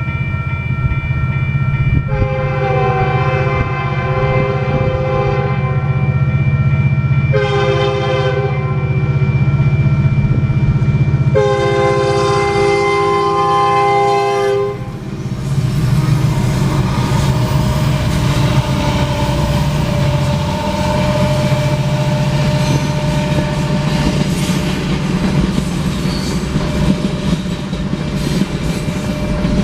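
Union Pacific EMD SD70M locomotive's air horn sounding a long blast, a short one and a long one, the grade-crossing signal. The three SD70Ms' two-stroke diesel engines then pass with a steady drone, followed by the freight cars' wheels clicking over the rail joints.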